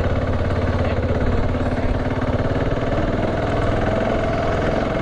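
BMW G650GS single-cylinder motorcycle engine running at low revs under load on a steep dirt climb, the revs rising slightly in the second half.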